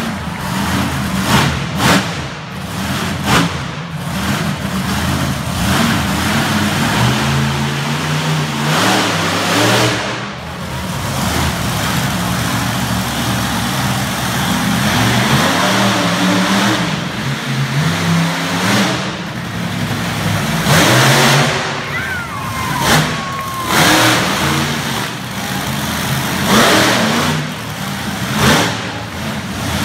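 Monster truck engine revving hard and dropping back again and again through a freestyle run, with repeated sharp surges in pitch.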